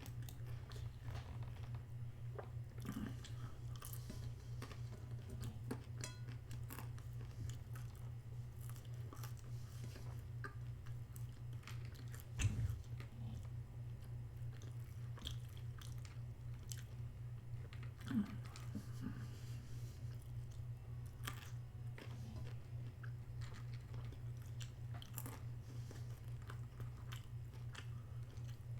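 A person chewing and biting into a chicken burger and fries close to the microphone, with crunching bites and small clicks throughout, over a steady low hum. A louder knock comes about twelve seconds in and another about eighteen seconds in.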